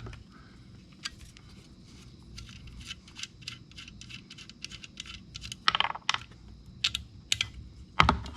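A wrench on the nut of a welder's negative (ground) lead: a string of small, sharp metal clicks and ticks, a few a second and uneven, with louder clatters about six seconds in and near the end, as the lead is being disconnected.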